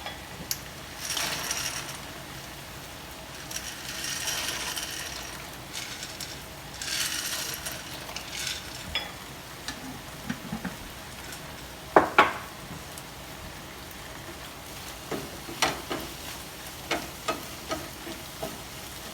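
Dry penne pasta poured into a pot in a few rattling, hissing bursts, followed by a utensil knocking against the pot several times. The sharpest knock comes about twelve seconds in. A faint sizzle of frying runs underneath.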